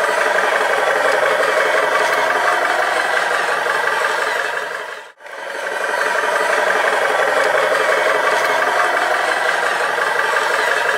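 Remote-control toy construction vehicles running, a steady gear-and-motor rattle with no deep bass. It dips briefly to almost nothing about five seconds in, then comes back at the same level.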